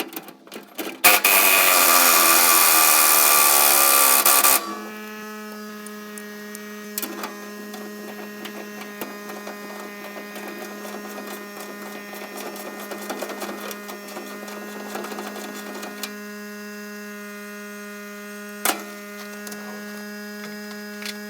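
An impact gun runs in one loud burst of about three and a half seconds on rusted fuel-tank bolts, its pitch falling as it works. A steady low hum follows, with scattered clicks and knocks.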